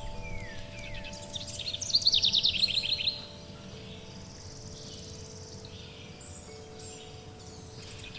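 A songbird singing a fast trill of rapidly repeated notes for about a second, about two seconds in, after a short falling whistle, over wind chimes ringing with long sustained tones. A faint high insect buzz runs underneath.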